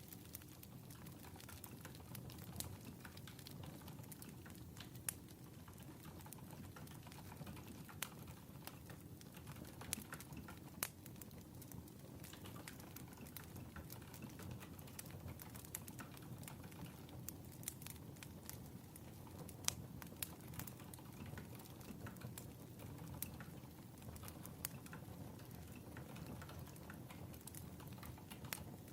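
Crackling wood fire: irregular pops and snaps over a low, steady rumble.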